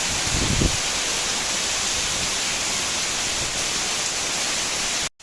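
Heavy rain pouring down in a steady, even hiss. There is a brief low rumble about half a second in, and the sound cuts out for an instant near the end.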